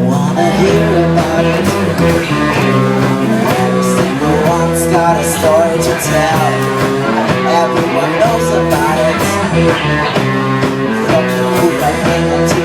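A rock band playing a song with guitar and drums, with a voice singing over it.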